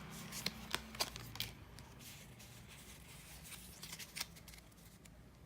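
Faint, scattered clicks and light rustles of a foil booster pack and its trading cards being handled, with a few taps in the first second and a half and again about four seconds in.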